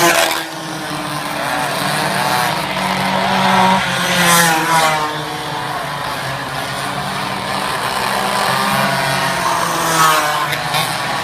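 Several racing minibike engines running at high revs, their high-pitched notes rising and falling as they accelerate and lift off, with louder passes about four seconds in and again near the end.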